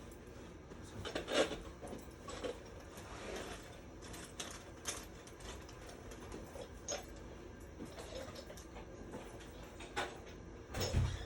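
Scattered clicks, knocks and light rattles of tools and parts being handled, with a heavier thud near the end.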